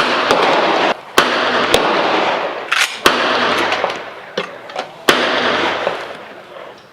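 Rifle shots at a shooting range: several sharp cracks, the loudest right at the start and others about one, three and five seconds in, over a dense rushing noise that dies away near the end.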